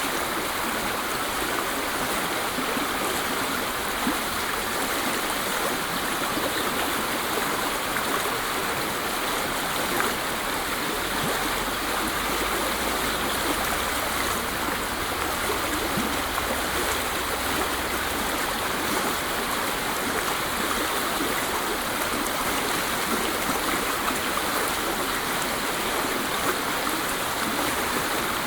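Waterfall: falling water rushing in a steady, unbroken hiss of noise with no pauses or changes.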